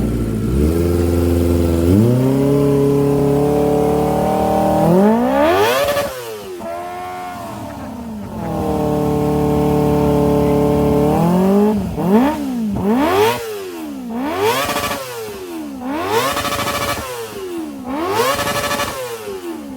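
Kawasaki ZX-25R inline-four engine through an aftermarket carbon-fibre silencer, revved: the pitch climbs in steps and holds, surges high about five seconds in and drops back, holds steady again, then rises and falls in about six quick throttle blips in the last eight seconds.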